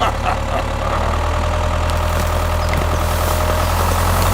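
Small engine running steadily with a low, even hum, slowly growing a little louder.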